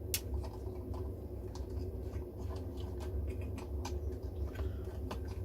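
Scattered small clicks and taps of radio parts and wiring being handled and fitted while the radio is reassembled, the sharpest one just after the start, over a steady low hum.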